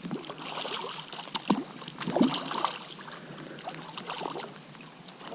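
Creek water splashing and trickling, broken by a few short splashes and sharp knocks.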